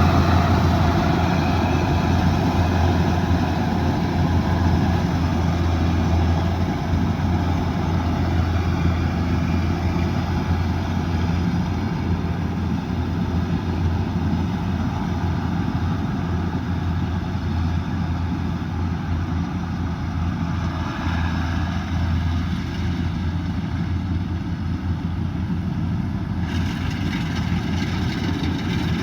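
Kubota DC108X combine harvester running steadily: its diesel engine drones with a strong low hum, and a brighter hiss joins near the end.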